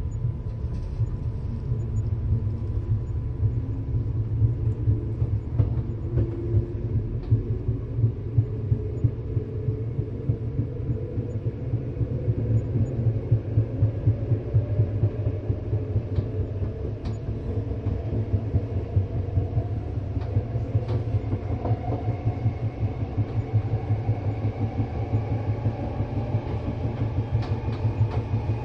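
Train running, heard from inside the carriage: a steady low rumble of wheels on rail with scattered clicks. A whine rises steadily in pitch through the second half as the train gathers speed.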